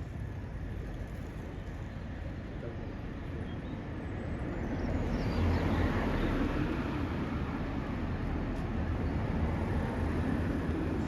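Road traffic: a vehicle passing on the street, the low rumble and tyre noise swelling to its loudest about six seconds in, then holding steady.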